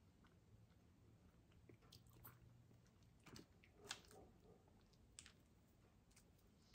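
Very faint chewing and wet mouth clicks of someone eating, with a few soft clicks and rustles from handling food packaging. Overall close to silence.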